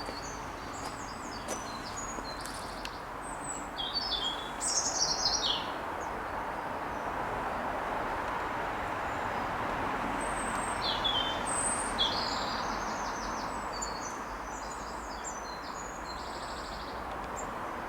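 Small birds singing and calling in short high chirps and trills, over a steady hum of road traffic that swells in the middle.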